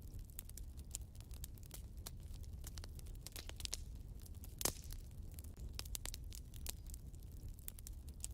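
Wood fire burning in a fireplace, crackling with many small irregular pops and one louder snap about halfway through, over a low steady rumble of the flames.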